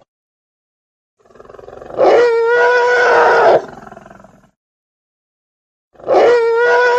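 Elephant trumpeting: a loud, steady-pitched call of about a second and a half after a softer lead-in, then a second call starting near the end.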